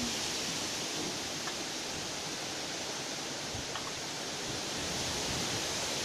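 Strong wind blowing through trees: a steady rushing hiss of wind in the leaves and branches.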